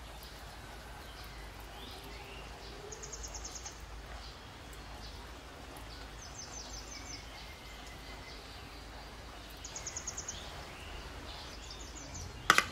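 Quiet outdoor background with a small bird repeating a short, rapid, high trill about every three seconds, and a few faint chirps. A sharp click sounds near the end.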